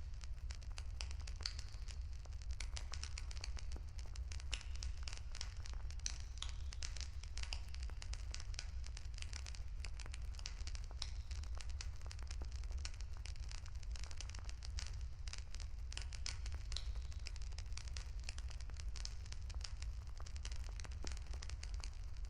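Wood campfire crackling steadily: a dense, irregular run of small pops and snaps over a steady low rumble.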